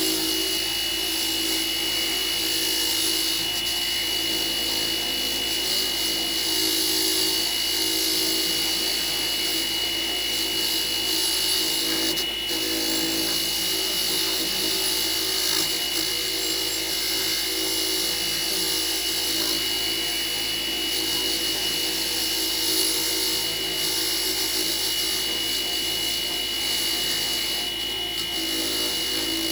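A power tool running steadily at high speed, a constant whine over a bright hiss, with no pauses.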